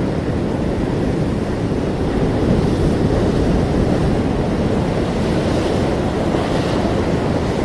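Ocean surf washing ashore in a steady low rumble, swelling slightly partway through, with wind noise on the microphone.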